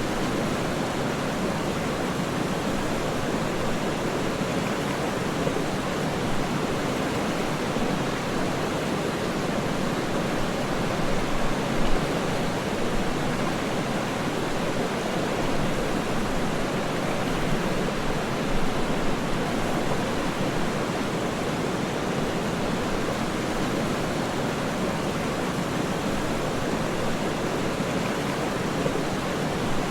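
Waterfall: a steady rushing noise of falling water, with a couple of brief swells.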